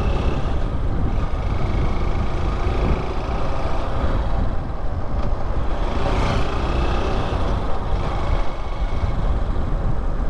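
Motorcycle being ridden, its engine running steadily under heavy wind rush on the microphone.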